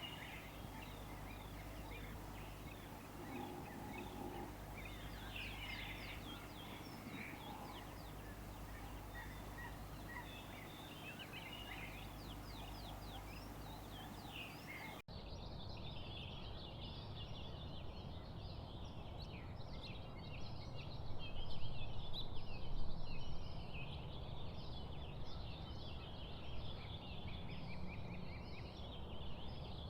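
Many small songbirds chirping and trilling, with short high calls over a steady low rumble. About halfway through it cuts abruptly to a denser, busier chorus of chirps, loudest a little past two-thirds of the way.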